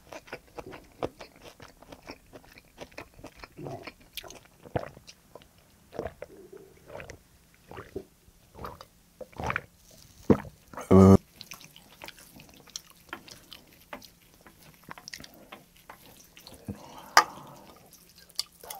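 Close-miked eating sounds: chewing and wet mouth noises with many small clicks and smacks, from a person eating tomato spaghetti. About eleven seconds in, just after a drink from a glass, comes one short, loud vocal sound.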